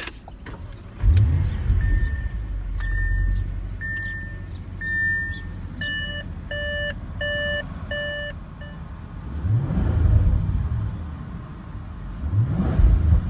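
2017 Audi S8 Plus 4.0 TFSI V8 starting about a second in with a loud flare, then settling to idle, heard from inside the cabin. Two short revs rise and fall later on, one about two-thirds through and one near the end. Between start and revs the dashboard beeps about eight times, first a plain tone, then a richer chime.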